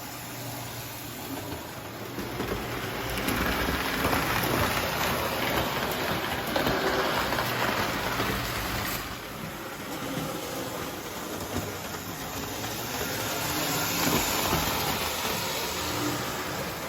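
Lionel toy electric locomotive running on three-rail model track, a steady rattling rumble with a low motor hum that swells louder a few seconds in and again near the end as it comes past.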